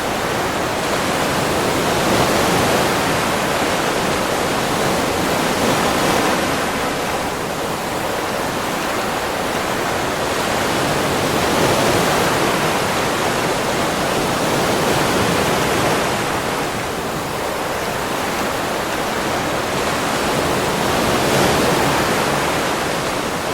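Sea waves on a beach: a steady rush of surf that swells and eases every few seconds.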